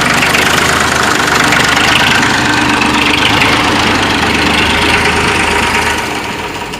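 1989 Massey Ferguson tractor's diesel engine idling steadily, a little quieter near the end; its sound is judged to be in fine working order.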